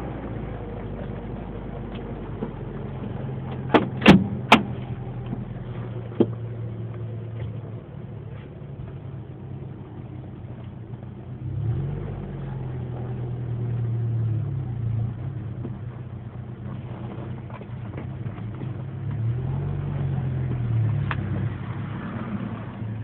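A 1994 Mazda B2300 pickup's four-cylinder engine running steadily, its pitch rising and falling twice as the revs go up and come back. A few sharp clicks or knocks come about four seconds in.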